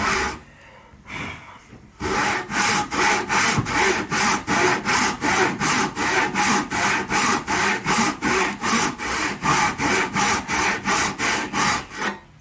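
Hand saw cutting through pallet wood: a couple of short strokes, then a steady run of quick back-and-forth strokes, about three or four a second, that stops near the end.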